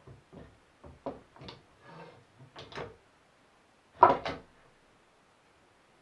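Wooden workpieces knocking together as they are handled: a run of short knocks with a brief scrape in the middle, then a loud double knock about four seconds in.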